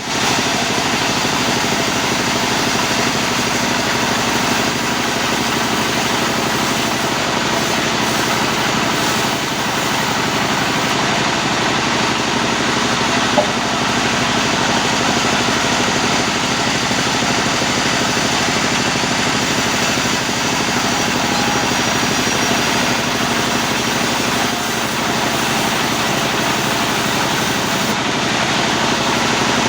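Sawmill machinery running with a loud, steady mechanical noise, with one brief click about 13 seconds in.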